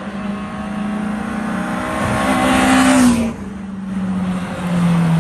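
Race car engine accelerating hard, rising in pitch to its loudest about three seconds in, then dropping off sharply as at a gear change or lift-off, before building again near the end.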